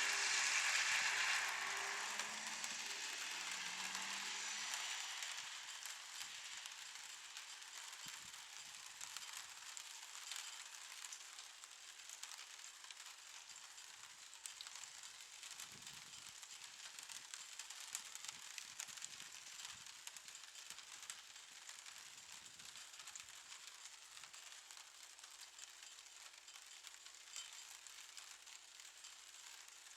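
M62 diesel locomotive running and fading away over the first five or six seconds. It leaves a faint steady hiss with scattered small ticks.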